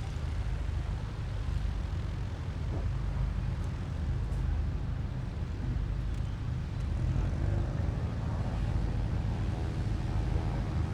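Light aircraft's piston engine and propeller running, with a steady low rumble throughout; an even buzzing tone grows clearer near the end.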